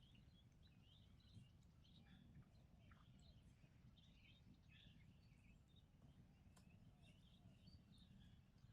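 Faint chirping of small birds, many short calls scattered throughout, over a low steady rumble.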